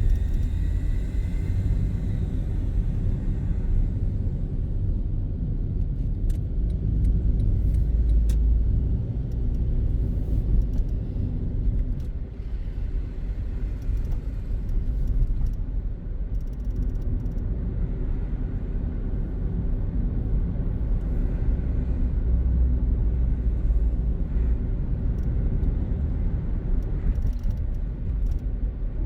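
A car being driven on city streets, heard from inside: a steady low rumble of engine and road noise.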